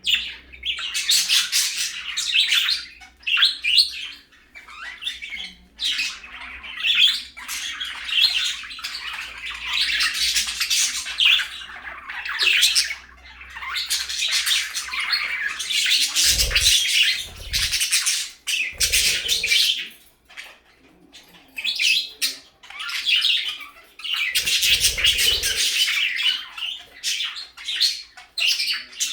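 Budgerigars chattering, chirping and squawking in bouts with short pauses. A few dull low thumps come about halfway through and again near the end.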